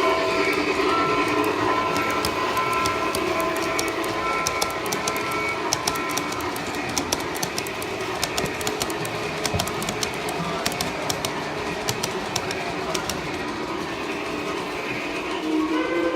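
G scale model train running along its track, with a steady running noise and a scatter of sharp clicks as the wheels pass over the rail joints through the middle stretch. Steady tones in the first few seconds fade away.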